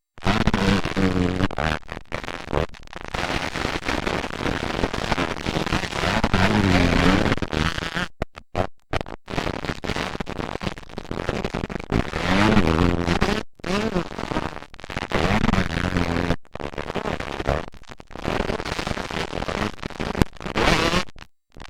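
Motocross dirt bike engines revving up and down as riders go around the track, pitch rising and falling in swells. The sound cuts out abruptly for a moment several times.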